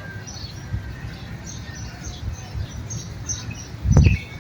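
Small birds chirping in quick, repeated notes over a low, uneven rumble, with one loud thump near the end.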